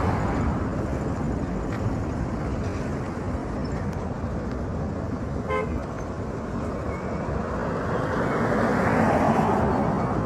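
Road traffic noise with a short, single car horn toot about five and a half seconds in, and a vehicle passing close, louder toward the end.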